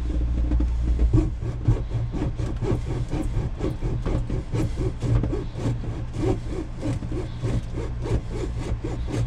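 Hacksaw cutting through a boat's rubber wet-exhaust hose in quick, steady back-and-forth strokes, about three a second, to cut off the leaking section. A steady low hum runs underneath.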